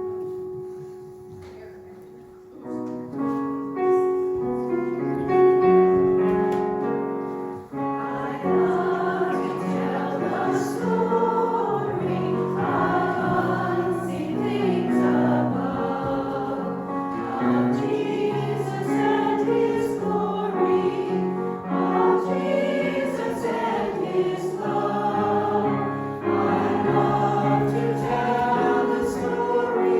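A piano plays a short introduction, then a choir comes in about eight seconds in and sings a hymn with piano accompaniment.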